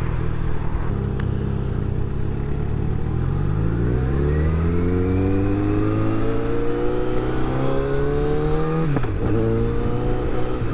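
Motorcycle engine heard from the rider's seat, running steady and then accelerating, its pitch climbing for several seconds. About nine seconds in the pitch drops sharply with an upshift, then it runs steady again, with wind and road noise throughout.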